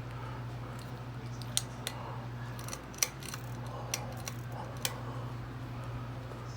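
Ceiling fan motor humming steadily with a low electrical hum. About six sharp clicks break in between about one and a half and five seconds in.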